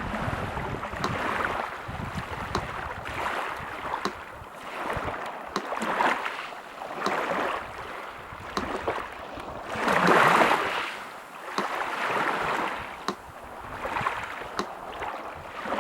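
Sea surf washing in and out in repeated swells, one larger wave about ten seconds in. A metronome ticks steadily over it, about four ticks every three seconds.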